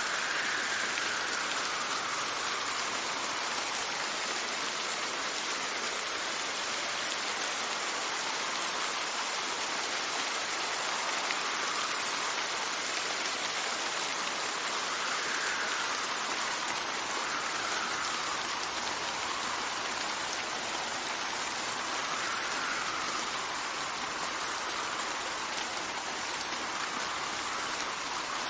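Steady rain hissing, with wind rising and falling in a faint whistle several times.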